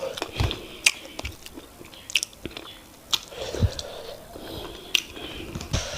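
Close-miked eating of fufu and oha soup: wet chewing and mouth noises broken by scattered sharp clicks and smacks.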